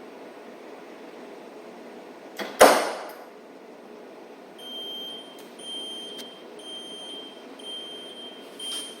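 A sharp clack, then a commercial washing machine's control panel giving long, high electronic beeps about once a second over a steady machine hum.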